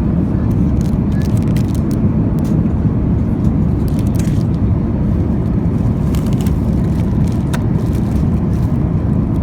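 Steady low rumble of cabin noise aboard an Airbus A350-900 airliner, with a few faint clicks.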